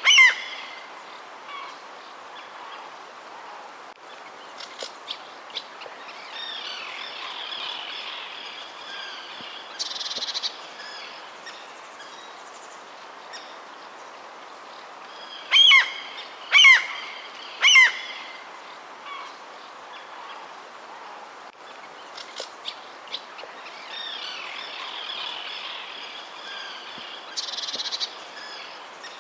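Wild birds calling outdoors: a short, loud call once at the start and three times about a second apart midway, with quieter chirps and twittering in between, over a steady background hiss.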